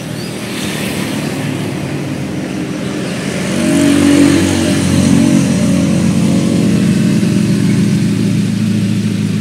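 Daihatsu Grand Max's 1.5-litre four-cylinder engine idling warm, with its electric radiator extra fan running. It gets louder about three and a half seconds in.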